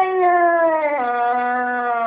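A domestic cat's long, drawn-out meow, slowly falling in pitch, with a step down about a second in.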